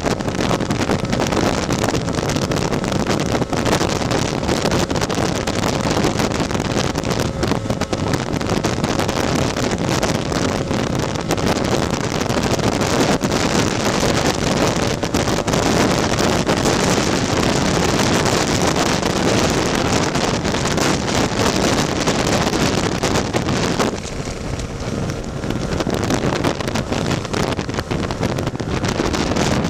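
Heavy wind buffeting the microphone over a tuned Lambretta scooter's single-cylinder two-stroke engine running at speed. The noise eases for a couple of seconds about four-fifths of the way through.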